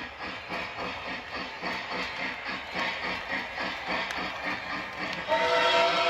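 Lionel LionChief+ 2.0 Southern Berkshire model steam locomotive's onboard sound system playing rhythmic steam chuffing, then about five seconds in a steam whistle blows, louder than the chuffing.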